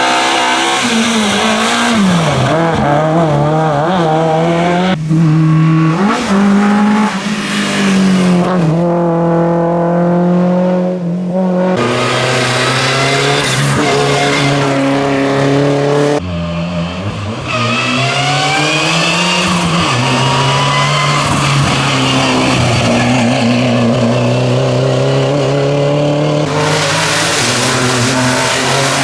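Rally car engines revving hard, rising and falling in pitch through gear changes, with tyre squeal. The engine sound changes abruptly a few times.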